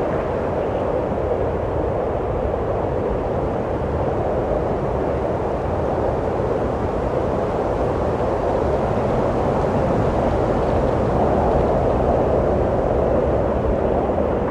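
Steady wind rushing, a low, even noise that swells slightly and eases back.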